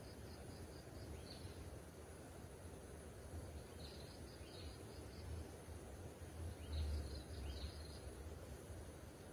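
Small birds calling in quick runs of high chirps, three or four runs with a few seconds between them, over a steady low rumble that swells briefly near the end.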